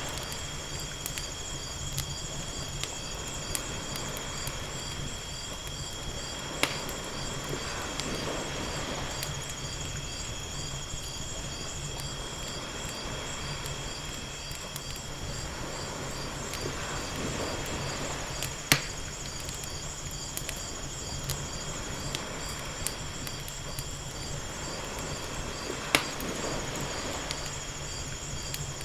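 Wood fire crackling, with three sharp pops over the steady small crackles, mixed with gentle waves washing ashore. A steady, high-pitched pulsing chirp runs underneath.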